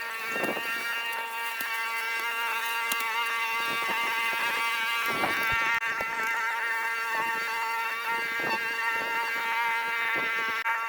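A small motor running steadily with a high, even whine, with scattered brief rustling or scraping noises over it.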